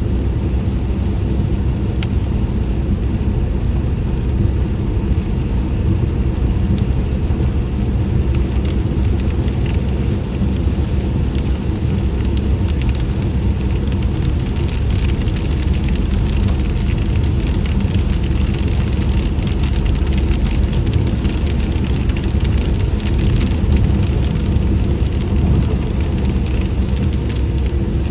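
Inside a car's cabin with the windows up: a steady low rumble of the car driving, with raindrops ticking on the body and glass. The rain ticks grow denser about halfway through.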